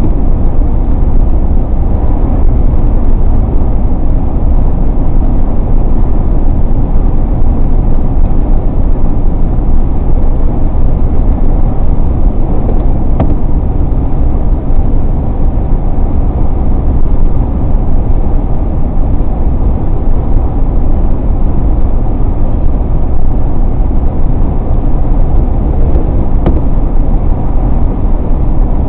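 Steady road noise of a car driving at speed, heard from inside: a loud, even rumble of engine and tyres with no changes.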